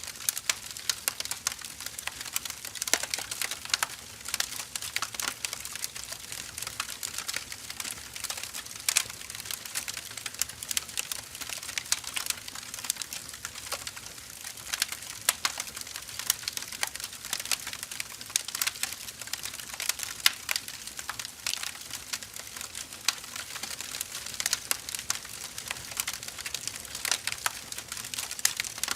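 Wood fire burning, logs crackling with many irregular sharp pops over a steady hiss.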